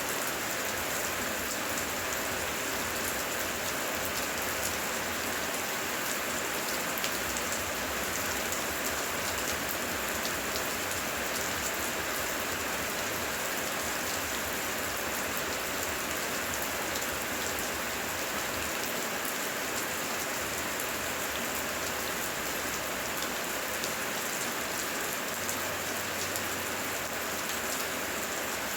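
Heavy, steady rain falling and pattering on surfaces, a dense even hiss full of fine drop impacts.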